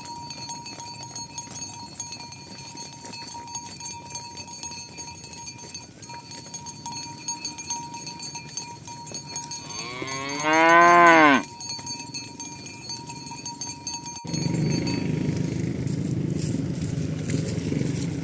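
A cow moos once, loud and falling in pitch, about ten seconds in, over a steady ringing background with frequent small clicks. Near the end the sound cuts abruptly to a steady low rumbling noise.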